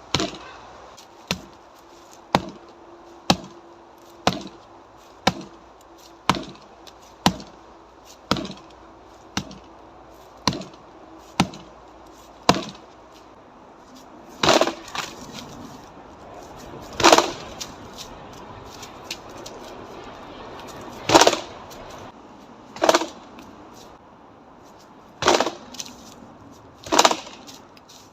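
Karate strikes hitting a dry dead tree trunk: sharp wooden knocks about once a second for the first dozen seconds, then slower, heavier blows one to four seconds apart.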